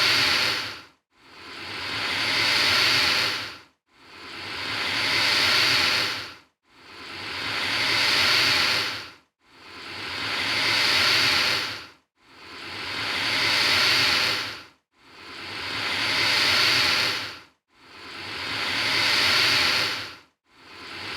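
Alligator hissing: the same long hiss repeated about every two and three-quarter seconds, eight times. Each one swells over about two seconds and then cuts off sharply, with a brief silence before the next.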